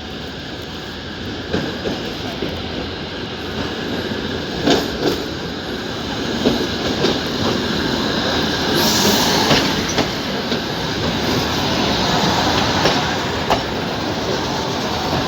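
Abu Qir line train running on the rails: steady rumble with irregular knocks of the wheels over rail joints, slowly getting louder. A burst of high hissing squeal comes about nine seconds in and fades over a second or so.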